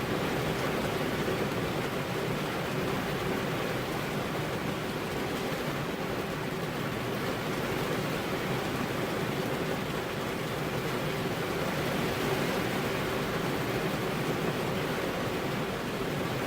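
Heavy rain falling on car windows, a steady, even hiss with no distinct drops or thunder.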